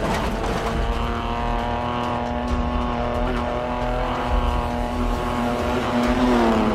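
Classic racing car's engine held flat out at steady high revs on a banked track, the note dipping near the end as the revs drop.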